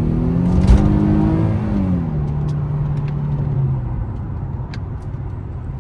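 Car engine revving up, then dropping back to a steady note and fading as the throttle is eased off, with a single knock about a second in.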